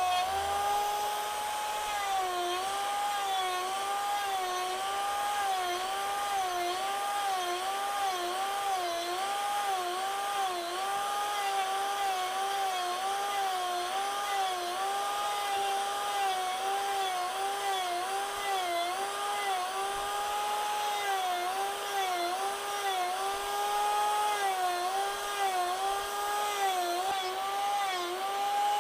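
Rotary carving disc on an angle grinder running at speed and cutting wood, its whine dipping briefly in pitch about once a second as the disc bites in under load.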